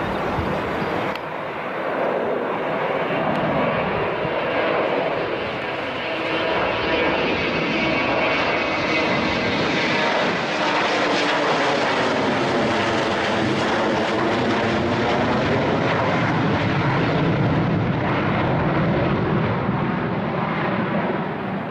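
An airplane's engines roaring at high power as the aircraft passes, steady and loud, with a swirling tone that sweeps up and down through the roar in the middle of the pass.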